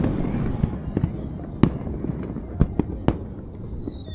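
Aerial fireworks going off: sharp bangs, several a few seconds apart, over a continuous rumbling crackle. From about three seconds in, a high whistle falls slowly in pitch.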